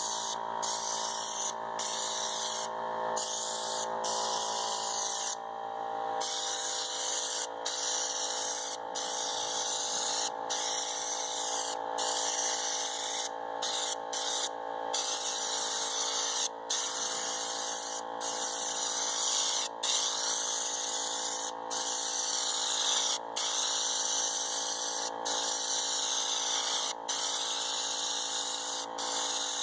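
Air-powered spray gun hissing as it sprays U-POL Raptor truck bed liner, the hiss cutting out briefly every second or two as the trigger is let off between passes, over a steady hum.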